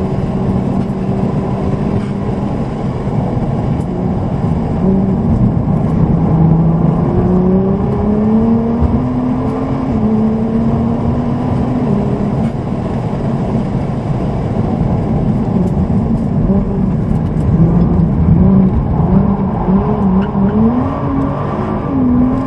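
Nissan GT-R's tuned twin-turbo V6 heard from inside the cabin over steady road noise. The engine holds an even note for the first several seconds, then pulls harder with its pitch climbing, drops back once as it changes gear, and climbs again near the end.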